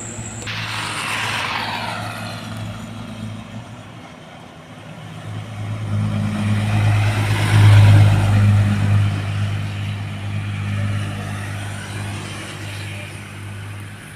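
Heavy diesel truck passing close by: an engine drone with tyre rush that builds to its loudest about eight seconds in, then slowly fades.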